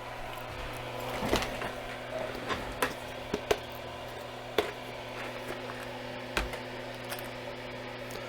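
Scattered light clicks and knocks of small parts and objects being handled on a workbench, over a steady low electrical hum.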